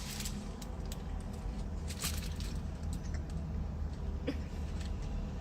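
Close-up eating sounds from a fast-food burger: scattered small clicks and crackles of chewing and handling the food, over a steady low hum in a car's cabin.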